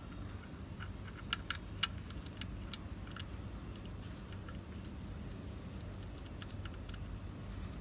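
Light, irregular metallic clicks and ticks of the oil drain plug and hand tools being handled as the plug is refitted, over a steady low background hum. A few sharper clicks come close together about a second and a half in.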